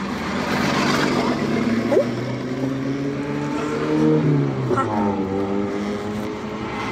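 Car engine heard from inside the cabin while driving, its note rising as the car speeds up, then dropping back about four seconds in and holding steadier.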